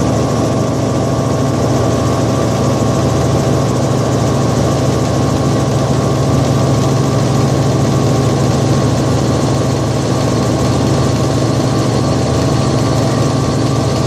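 Helicopter engine and rotor running steadily: a loud, constant low drone.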